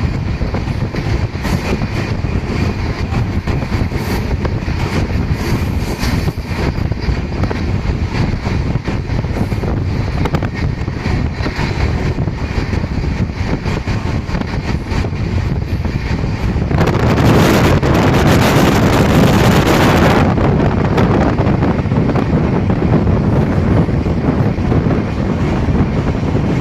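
Passenger train running, a steady loud rumble with wind buffeting the microphone. About two-thirds of the way through, a louder rushing noise swells for about three seconds, then drops back.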